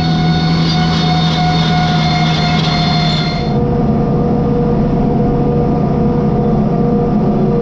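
Tractor engine running steadily under load, with steady machinery whine on top. About three and a half seconds in, the tone changes and the high part of the sound drops away.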